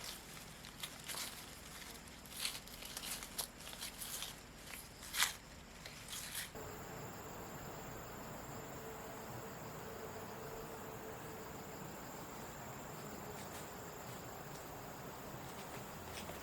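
Irregular rustling, crunching steps for about the first six seconds, then an abrupt change to a steady background with a thin high insect drone.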